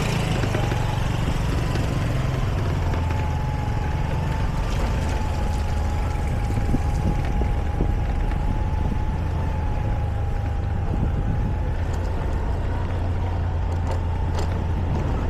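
Motorbike engine running steadily while riding, a constant low drone with a thin, steady whine above it.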